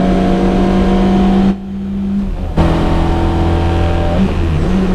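Lada 21074 rally car's engine heard from inside the cabin, pulling hard at steady high revs. About a second and a half in it drops off for about a second during a gear change. It then pulls again at a lower pitch, and the pitch shifts once more near the end.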